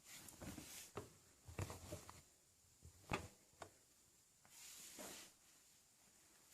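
Faint handling noises: soft rustles and a few light knocks and clicks, the sharpest about three seconds in.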